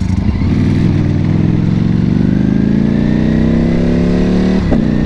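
Ducati Panigale V4 sportbike engine accelerating, its pitch climbing steadily through one gear. Near the end a quick upshift briefly drops the revs before they start climbing again.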